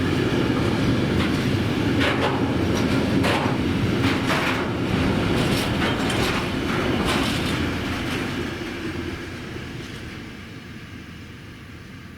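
Freight train running past over the rails, its wagons clattering with sharp clicks from the wheels, then fading away from about eight seconds in.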